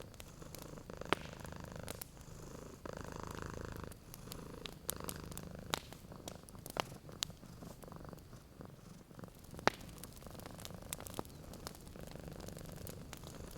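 Domestic cat purring steadily, the purr swelling and easing with each breath, while a wood fire gives off scattered sharp pops and crackles, the loudest pop about nine and a half seconds in.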